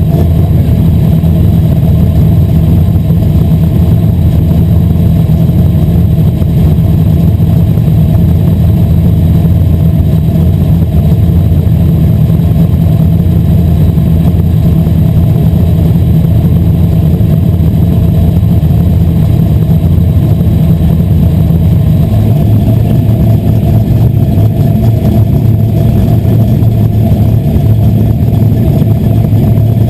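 Asphalt modified race car's engine running hard at racing speed, loud and steady, its note dropping noticeably about 22 seconds in.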